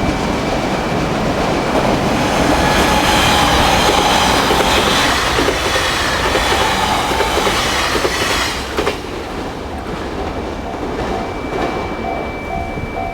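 A JR Kyushu electric limited express train passes over a level crossing, its wheels clacking over the rail joints, while the crossing's warning bell rings in a steady repeating ding. The train noise swells about two seconds in and cuts off sharply at about eight and a half seconds, leaving the crossing bell ringing on.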